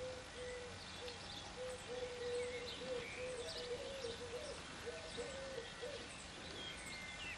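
Faint outdoor birdsong: small birds chirp in short, high notes over a lower, wavering note that repeats many times.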